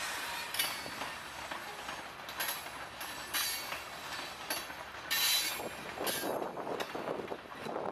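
Covered hopper cars of a long freight train rolling past, a steady rumble and clatter of wheels on rail, with several brief high-pitched flare-ups of wheel squeal, the strongest about five seconds in.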